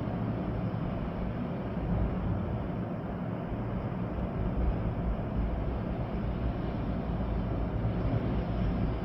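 Storm wind blowing through trees with rain, a steady rushing noise over a deep, unbroken low rumble.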